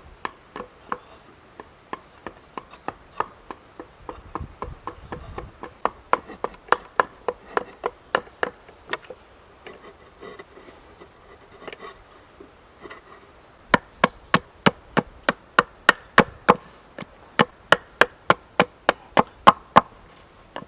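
Quick repeated blows of a tool on wood, about two to three a second, while new legs are made for a camp table. The blows pause about halfway and then resume louder.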